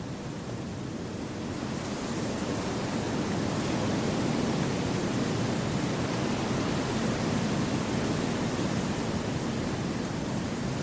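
Wind blowing through forest trees, swelling over the first few seconds and then holding steady.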